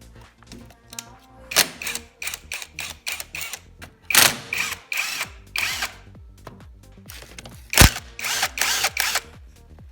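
Tool work on a motorcycle engine: groups of short, sharp bursts at about three to four a second, with a single loud knock a little before the last group, over quiet background music.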